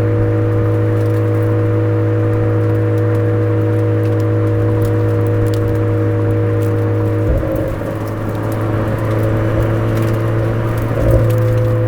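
Exhaust of a Suzuki Swift Sport ZC33S through a Fujitsubo muffler, its 1.4-litre turbocharged four-cylinder running at steady revs with an even drone. About seven seconds in, the drone breaks up and dips in level, then comes back with a short surge near the end.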